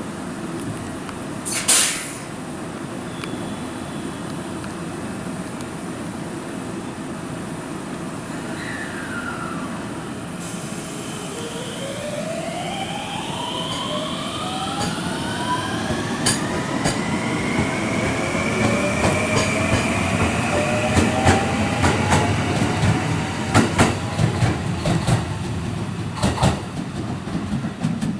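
IR Ishikawa Railway 521 series electric multiple unit pulling away, its traction inverter whine climbing in pitch in several parallel tones as it accelerates, then levelling off. A short loud burst about two seconds in, and wheels clicking over rail joints, growing louder and denser near the end as the cars go by.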